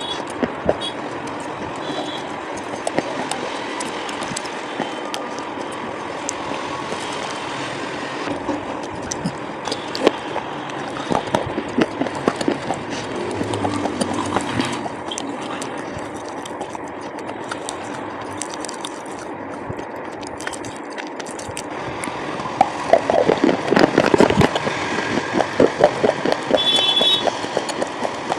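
Close-up crunching and chewing of coloured slate pencils and chalk: a steady crackle of many small snaps, with a louder, denser run of sharp crunches about three quarters of the way through.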